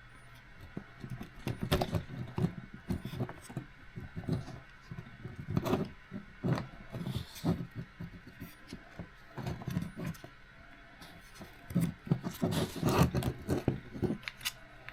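Irregular clicks, taps and light scraping of small plastic and metal RC car parts being handled and fitted by hand, busiest around two seconds in and again near the end.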